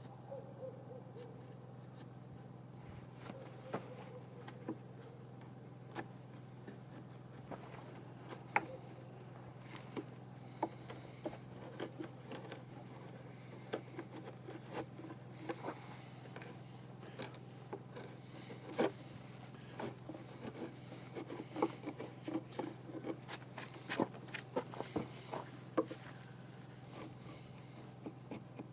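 Irregular light clicks and taps of hand-tool work on wood, clearing the waste out of notches cut in a table leg, coming thicker in the second half. A steady low hum runs underneath.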